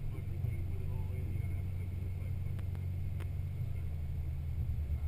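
Jeep engine running steadily at low speed while the Jeep drives on beach sand, heard from its hood as a constant low rumble.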